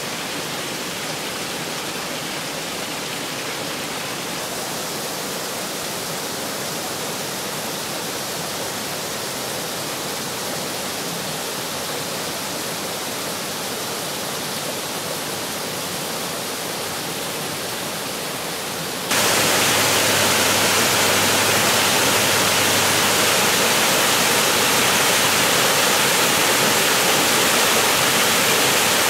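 Steady rush of water falling over the rocky cascades of a mountain river. It jumps abruptly louder about two-thirds of the way through, as a closer or bigger fall takes over.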